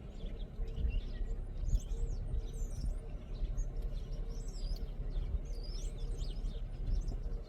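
Small birds chirping and twittering continuously, with many quick overlapping calls, over a steady low rumble.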